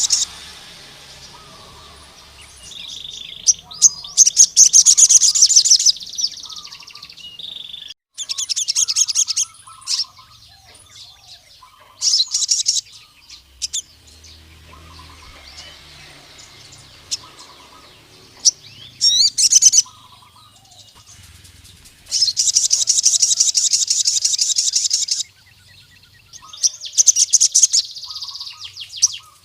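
Male crimson sunbird (sogon) singing: loud, high, rapid trills of one to three seconds, given again and again, with softer chips between them. A song used to challenge a rival male.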